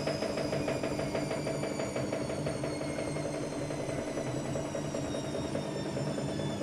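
AEG Lavamat Turbo washer-dryer running through a wash cycle: a steady motor hum with a fast, even rattle, and a high whine that falls slowly in pitch as the drum slows.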